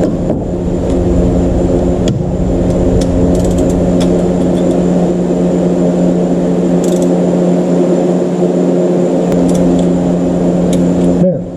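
A steady mechanical hum at one constant pitch, like an engine or motor running, with a few faint clicks. It drops out briefly with a falling pitch near the end, then resumes.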